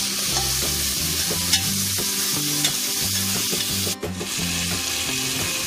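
Onions, tomatoes and green chillies sizzling in hot ghee in an aluminium pressure cooker as they are stirred and sautéed with a steel ladle, with a couple of sharp clicks. The sizzle breaks off for an instant about four seconds in.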